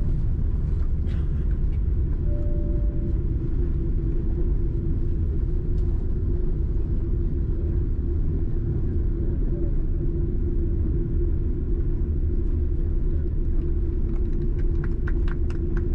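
Steady low rumble of cabin noise in a Boeing 747-8 airliner on landing, with a steady hum over it and a few faint clicks near the end.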